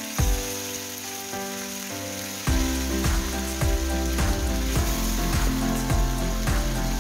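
Chicken pieces frying in sunflower oil, a steady sizzle, under background music with a steady beat. The music grows fuller and louder about two and a half seconds in.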